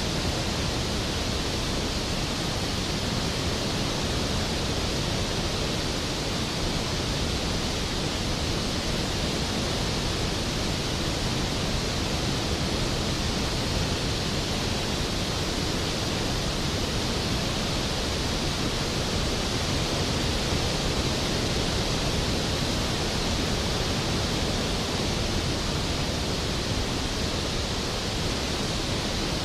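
Skógafoss waterfall: a large waterfall falling and crashing, a steady, even rush of water with no let-up.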